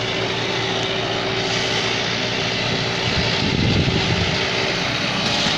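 Tractor's diesel engine running steadily, getting louder for about a second around three and a half seconds in.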